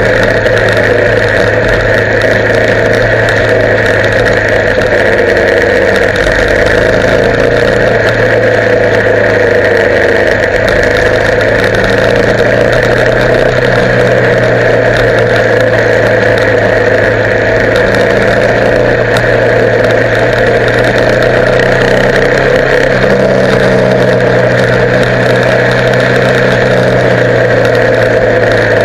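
Motorcycle engine running steadily at an even speed, with no revving or gear changes.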